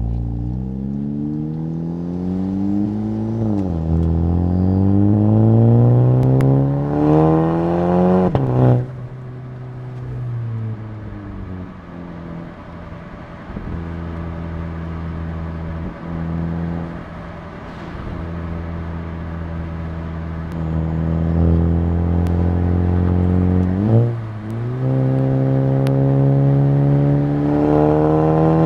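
Exhaust of a 2019 Volkswagen Jetta GLI's 2.0-litre turbocharged four-cylinder through a Neuspeed stainless cat-back, heard from an exhaust-mounted mic. It pulls hard through two gears, rising in pitch with upshifts about 3.5 and 8.5 seconds in, then cruises at steady revs. About 24 seconds in it shifts and pulls again, rising until another shift near the end.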